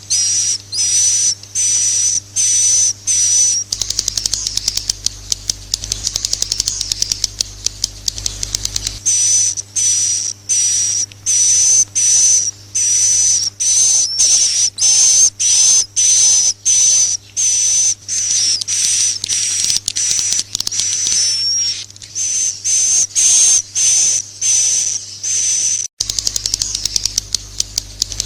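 Recorded edible-nest swiftlet calls: high-pitched chirps repeating about twice a second, broken by stretches of rapid clicking between about four and nine seconds in and again near the end. This is an 'inap' swiftlet sound, the kind played in swiftlet houses to make the birds roost.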